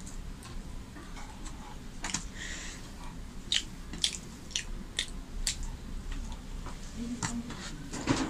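Close-up wet chewing of soft paratha with potato curry: irregular mouth clicks and smacks.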